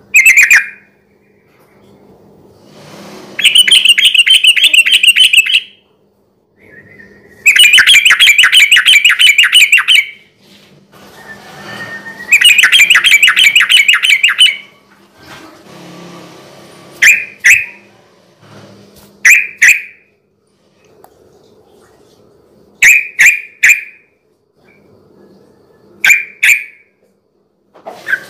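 Sooty-headed bulbul (trucukan) singing in rapid 'ropel' style: three loud runs of fast, evenly repeated chattering notes, each about two seconds long. In the second half these give way to short double calls a few seconds apart, over a faint low hum.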